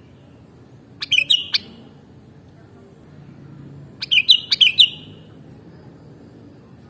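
Sooty-headed bulbul (kutilang) singing: two short, quick phrases of clear, bubbling notes, one about a second in and a longer one about four seconds in.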